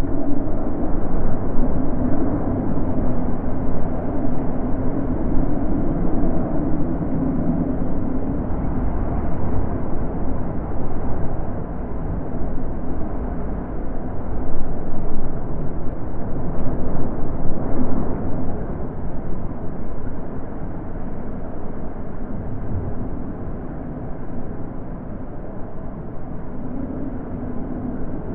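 Natural wind blowing, a low rushing noise that swells and eases every few seconds.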